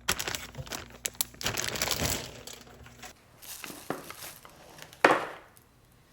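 Crinkling and rustling of packaging being handled, dense for the first few seconds and then sparser, with one sharp knock about five seconds in.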